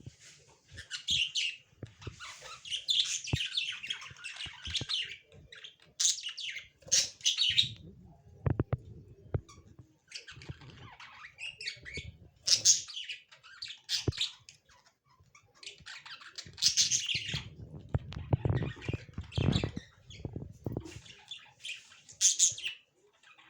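Lovebirds chirping in repeated bursts of high, scratchy calls, with scattered sharp clicks and low thumps in between.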